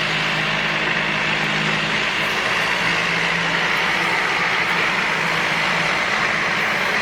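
Aircraft engines running: a steady, loud rush with a low hum beneath it that fades near the end.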